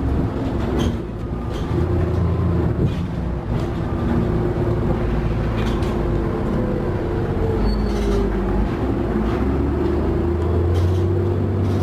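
Vehicle ride heard from inside: a steady low rumble with a whine that rises and falls, and a few faint clicks.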